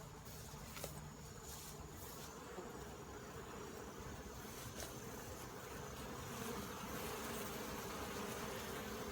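Honeybees buzzing in a steady, dense hum at the entrance of a crowded hive, growing a little louder about six seconds in.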